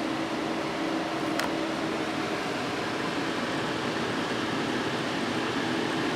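Cooling fans of two MSI GeForce GTX 970 graphics cards running steadily: an even rush of air with a steady low hum.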